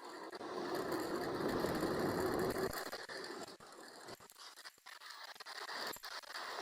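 Loaded touring bicycle rolling over rough, patched asphalt: tyre and road noise with steady mechanical rattling and clicking. It is loudest in the first couple of seconds, then eases.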